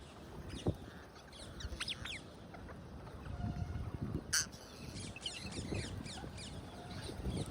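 A flock of rose-ringed parakeets calling in many short, high, quickly falling chirps, over low thuds and rustling. A sharp click about four seconds in.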